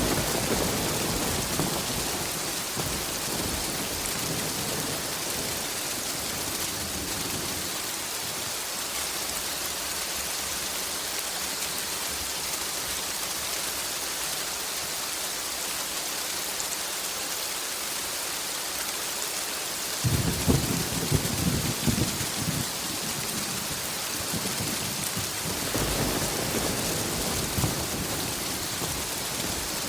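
Steady rain with thunder rumbling over it. A rumble fades in the first few seconds, a louder crackling peal comes about two-thirds of the way through, and a softer rumble follows near the end.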